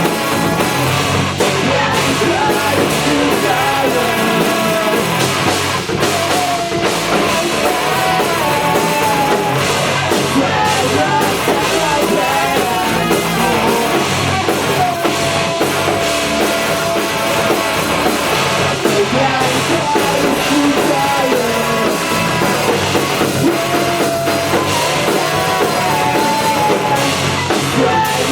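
Rock band playing at full volume: a drum kit keeping a steady beat under electric guitar and bass, with a sustained melody line over the top.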